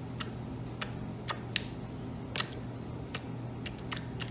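Freshly made jiggly slime being poked, giving about nine short, sharp clicky pops at uneven intervals.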